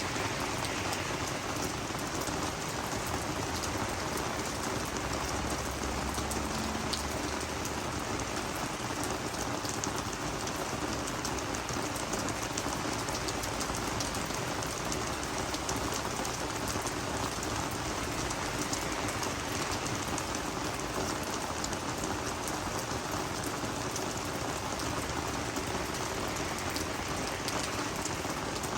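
Steady rain falling on garden vegetables and flowers, a constant hiss of rainfall with many separate drop ticks scattered through it.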